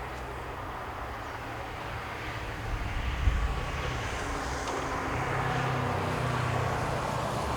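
Train running past on the line: a steady low rumble that grows louder about halfway through, with a few knocks about three seconds in.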